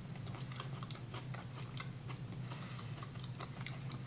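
Faint chewing of a light, crispy wafer cheese cracker: a run of small, irregular crunching clicks over a low steady hum.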